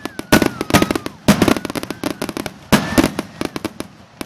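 Fireworks finale: a rapid, irregular barrage of loud bangs and crackling reports, with a few high whistles gliding down in pitch, thinning out and stopping near the end.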